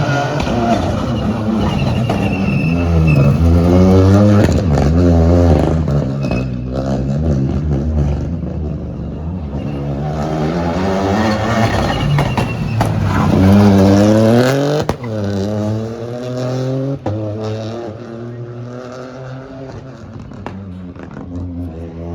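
Rally car engine revving hard, its pitch climbing and then dropping again and again with each gear change. It is loudest about four seconds in and again about thirteen seconds in, and two sharp pops come near the end.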